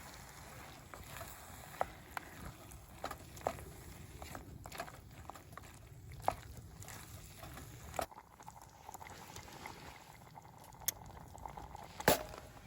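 Scattered light clicks and knocks over a low background noise, with a louder knock near the end.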